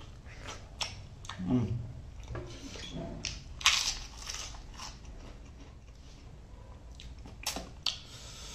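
A person chewing and biting food: wet mouth clicks and smacks, with a few sharper, louder crunches about four seconds in and again near the end.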